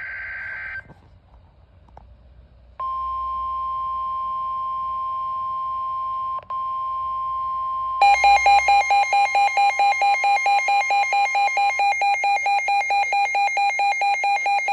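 Emergency weather alert tones: a brief burst of data-like noise, then the steady NOAA Weather Radio warning alarm tone with a brief dropout. About eight seconds in, a rapid pulsing alarm beep of about four beeps a second starts over the steady tone and continues after the tone stops.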